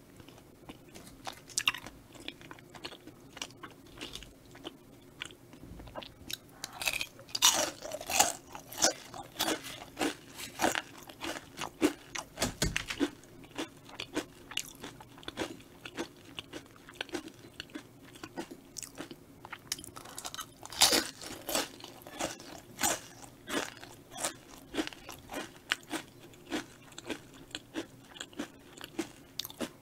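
Close-miked chewing with crisp crunches of Korean fried snacks (twigim) and rice cakes. The crunches come thickest about seven to eleven seconds in and again around twenty-one seconds.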